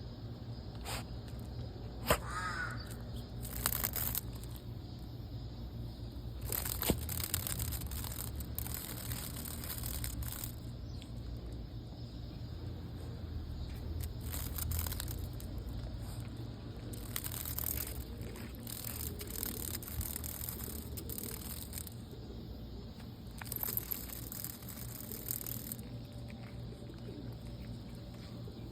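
Cicadas buzzing in a high hissing drone that swells and drops away in bursts of a few seconds each, over a steady low rumble on the microphone. A few sharp clicks are scattered through it, and there is a short wavering call about two seconds in.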